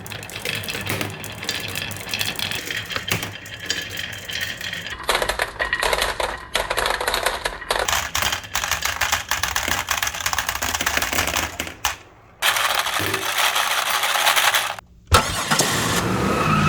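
Marbles rolling, rattling and clicking through the track pieces of a HABA marble run, a dense run of small clacks, cut off abruptly twice by short quiet gaps before picking up again.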